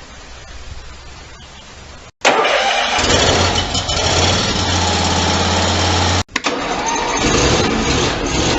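Small gas engine of a riding mower turning over and starting, then running loudly at a steady speed. The sound cuts off abruptly twice, about two seconds in and again about six seconds in, each time coming back with the engine running; it starts after a short stretch of quiet ambience.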